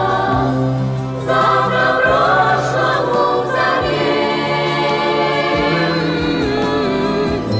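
Music: a song sung by a choir, long held notes with vibrato over a steady instrumental accompaniment.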